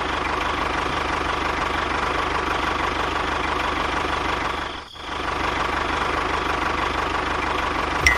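A small motor-driven machine running steadily, with a faint steady whine. It dips briefly about five seconds in.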